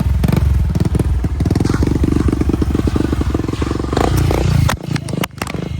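Small motorcycle engine running with a rapid, even firing rhythm. The sound drops away sharply near the end, with a few clicks and a quieter rumble after.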